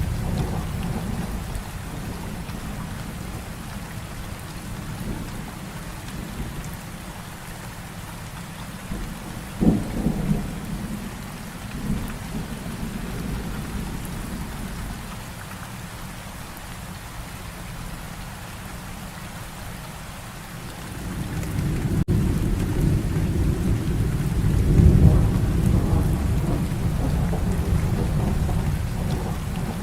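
Heavy rain falling steadily through a thunderstorm. A sharp thunderclap comes about a third of the way in, and a long rolling rumble of thunder builds and swells in the last third.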